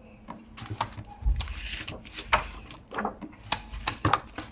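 Paper cutouts and cardstock being handled and set down on a table: short rustles and a series of light taps and clicks, with a dull thump about a second in.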